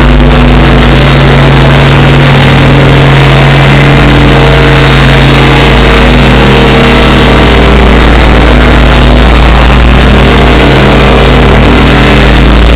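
Very loud, heavily distorted electronic drone: steady low tones over a thick wash of noise, clipped at full volume and unbroken, in the manner of a mock 'sound of a planet' recording.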